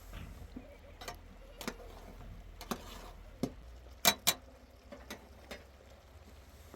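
A series of sharp, irregular clicks or light knocks, about eight in all, with the loudest two coming close together about four seconds in.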